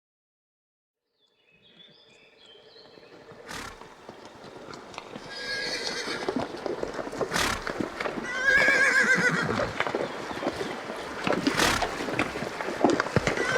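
Horse whinnying: a fade-in from silence, then repeated wavering, quavering neighs, three of them, with a few sharp hoof knocks in between.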